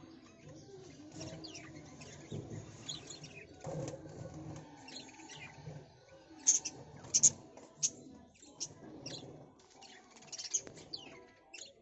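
Birds chirping: short, high, sharp notes scattered throughout, loudest in a quick run of chirps about six to eight seconds in.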